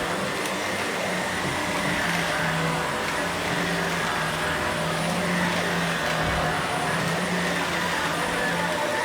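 Vacuum cleaner running steadily, a continuous motor whine and air rush with a low hum that wavers slightly in pitch.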